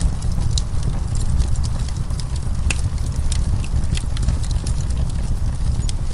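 Wood fire burning in a fireplace: irregular sharp crackles and pops from the burning wood, one louder pop a little under three seconds in, over a steady low rumble of the flames.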